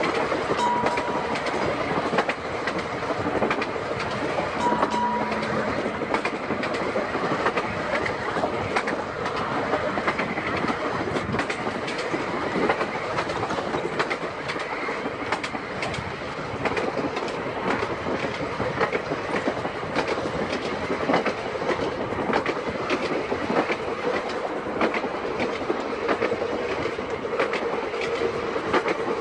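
Seaton Tramway electric tram running along its track, with a continuous rumble and clickety-clack of wheels over rail joints. Two short high tones sound in the first six seconds, and a steady hum comes in over the last several seconds.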